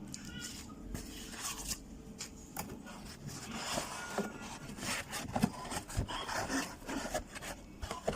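Irregular rubbing and scraping with short clicks and knocks, like hard objects being handled and scraped.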